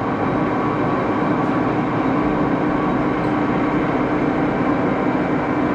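Axelson engine lathe running at a steady speed, a constant mechanical hum with one steady tone.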